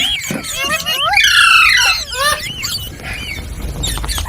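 Indian ringneck parakeet calling: a run of high, gliding squawks and whistles, loudest about a second in and weaker toward the end.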